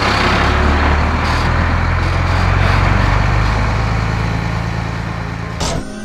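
Heavy truck engine sound effect, running and pulling away, with its low hum stepping up in pitch about a second in. It cuts off suddenly near the end.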